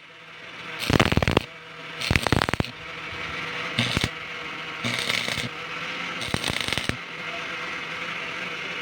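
A series of short, harsh scraping strokes of metal work, each about half a second long and coming every second or so, over a faint steady hum.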